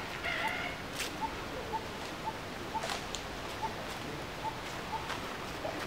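A bird repeating a short, low single note about twice a second, steady and even, with a brief high monkey squeak near the start and a few faint clicks.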